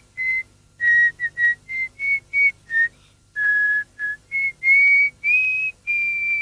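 A person whistling a tune: a string of short clear notes that step up and down in pitch, with a few longer held notes near the end.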